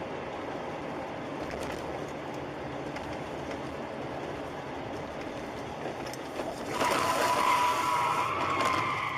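Steady road and engine noise of a moving car. About seven seconds in, a loud, high, wavering tone starts and lasts about three seconds.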